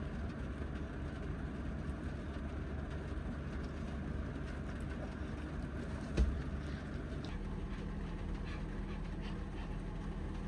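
Heavy rain on the roof of a kei van, heard from inside the cabin as a steady low rumble. There is a single thump about six seconds in, and a low hum joins a little after it.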